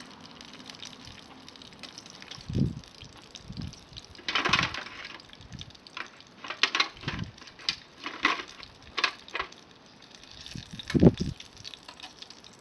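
Food sizzling and crackling over a wood campfire, with irregular pops and short hissing bursts. A few dull knocks come through, the loudest near the end.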